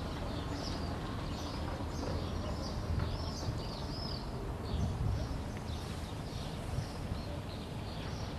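Small birds chirping over and over in short high arched notes, over a steady low rumble.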